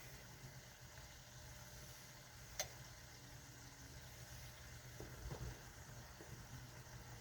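Faint steady kitchen hum with a soft simmering hiss from a pot on the stove. There is one sharp click about two and a half seconds in, and a few soft knocks later.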